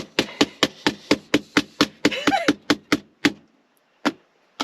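Fly swatter slapping rapidly on floor mats, about five sharp smacks a second, breaking off after about three seconds, then two single smacks near the end.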